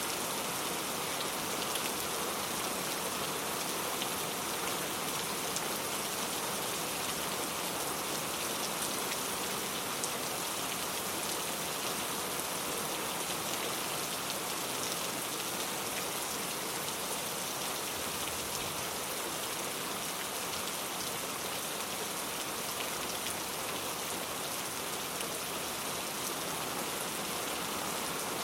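Steady rainfall: an even hiss of rain with scattered drops pattering on a surface, unchanging throughout.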